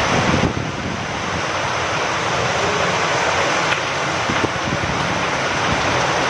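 Steady rain falling, with wind, as an even hiss and a few single drops ticking out of it.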